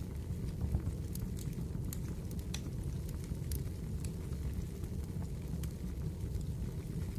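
Fireplace crackling: a steady low rumble of burning with scattered, irregular sharp pops and crackles.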